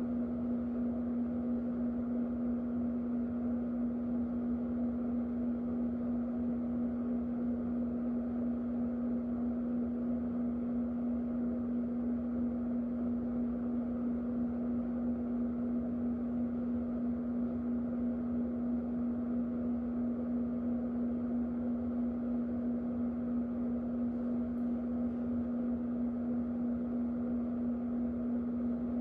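Electric fan running steadily: an even rush of air over a strong, constant low motor hum.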